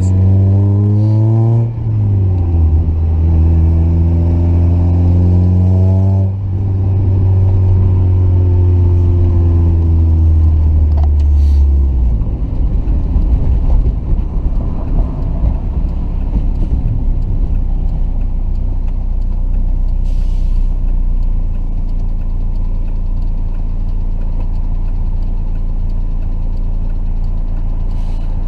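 Mazda Miata four-cylinder engine heard through an aftermarket exhaust (stock headers, resonated test pipe, 6-inch muffler) while driving. It revs up, upshifts about 2 s in, pulls up again and shifts about 6 s in, then its pitch falls slowly as the car eases off. After about 12 s it settles into a steady low drone.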